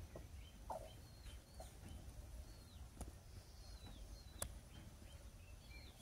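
Faint chirping of birds: short calls that slide downward in pitch, repeated every second or so. Two sharp clicks come about halfway through and a second and a half later.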